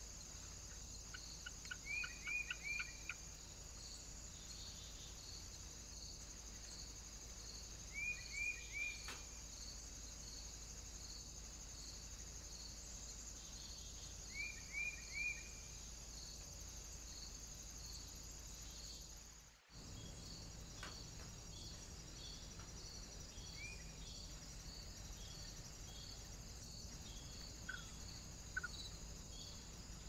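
Small birds calling in quick groups of three short falling chirps, three times in the first half, then a single chirp and a pair of chirps near the end. Behind them runs a steady high insect-like buzz with a regular pulse, which cuts out for an instant about two-thirds of the way through.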